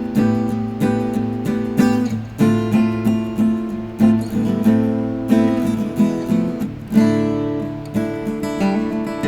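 Acoustic guitar strumming chords in a steady rhythm: an instrumental passage of a song, without singing.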